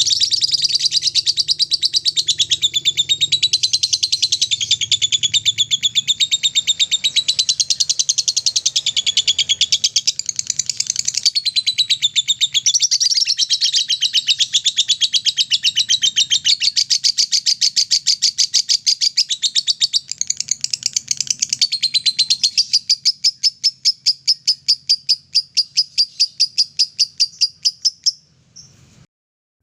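Lovebird's long, rapid chattering trill (the 'ngekek' song), many notes a second, loosening into slower separate chirps over the last few seconds before it stops near the end.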